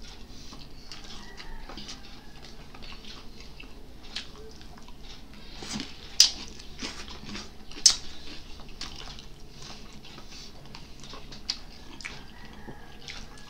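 Close-miked mouth sounds of eating boiled leafy greens: wet chewing with scattered small clicks and lip smacks, and two sharper smacks about six and eight seconds in.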